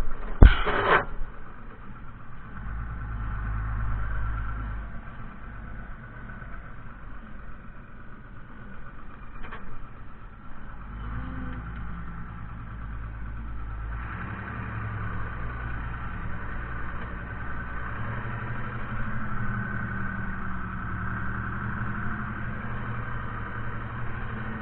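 Fiatagri 130-90 tractor's diesel engine running steadily, its note shifting a few times. A sharp click and short loud noises come right at the start.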